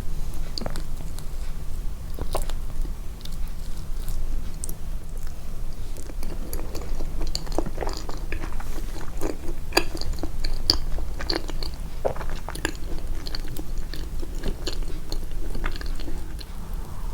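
Close-miked, amplified chewing and biting: a string of irregular wet clicks and crunches from the mouth, busiest in the middle, over a steady low hum.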